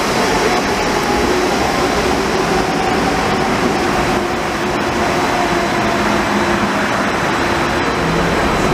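Light rail train running: a steady rumble and hiss with faint sustained hum tones.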